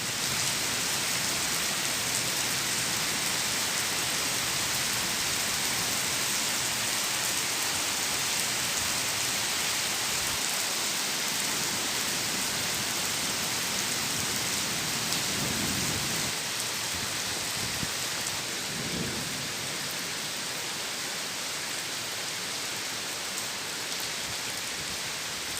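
Heavy rain pouring down in a steady hiss, with two brief low rumbles a little past the middle.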